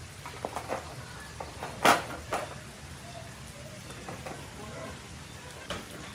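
Scattered light knocks and clicks, with one louder knock about two seconds in, over a low steady hum.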